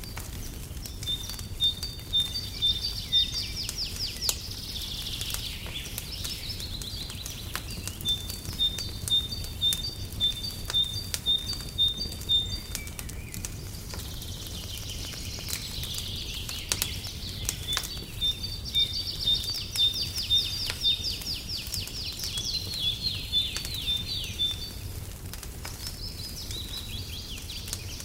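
Songbird singing in three runs of high, evenly repeated chirps, about two a second, with quick trills between them. Under it are the scattered soft crackles of a wood fire and a steady low rumble.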